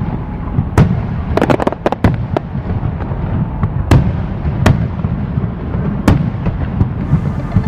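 Fireworks display: sharp bangs of bursting shells over a steady low rumble, with a quick run of cracks between about one and two and a half seconds in and single loud bangs near four, five and six seconds in.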